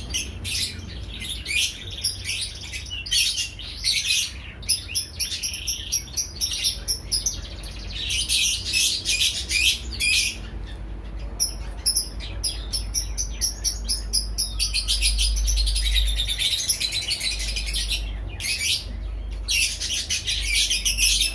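Small birds chirping and twittering in quick runs, with a low steady rumble underneath.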